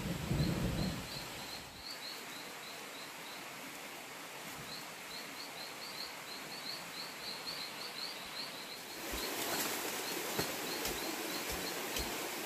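A small bird chirping in a rapid series of short high notes over forest ambience. Near the start there is a brief burst of rustling as branches on a campfire are handled. In the second half come a few sharp knocks of a hand tool digging into an earth bank.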